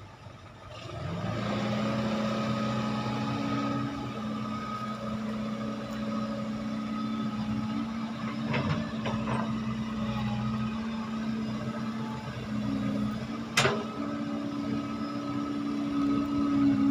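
Heavy diesel engine running steadily, picking up speed and getting louder about a second in, with one sharp knock about two-thirds of the way through.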